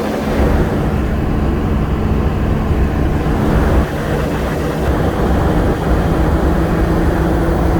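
Ford 6.0 Power Stroke V8 turbodiesel running with a steady low rumble.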